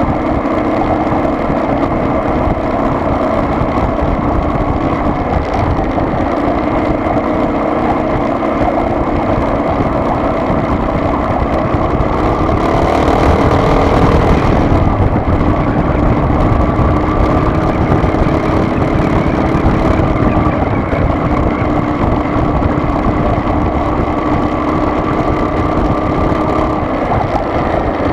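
Car engine and road noise while driving, a steady hum. About twelve seconds in the engine note rises and gets a little louder for a couple of seconds, as when accelerating, then settles again.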